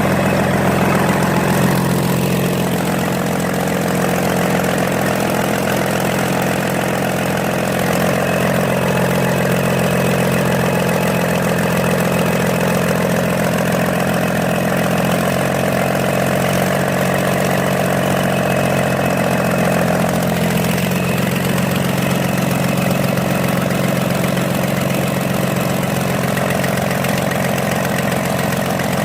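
Komatsu SAA6D125 inline-six diesel bulldozer engine idling steadily during a ground run test, out of the machine.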